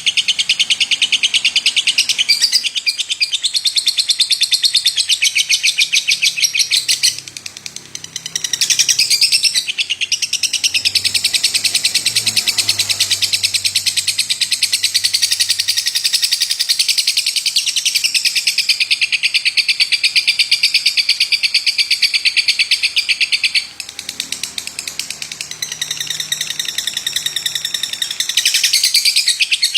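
Lovebird singing its long chattering trill (the 'ngekek' that Indonesian bird keepers prize), a very fast, high-pitched run of repeated notes held for many seconds at a time. It drops out briefly about a quarter of the way in and falls weaker for a few seconds near the end before picking up again.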